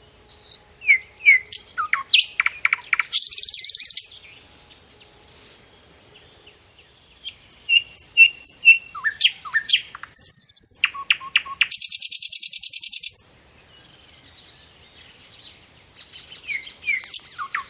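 A songbird singing the same phrase three times, about eight seconds apart. Each phrase is a run of quick, sharp chirps and whistles ending in a dry, buzzy trill about a second long.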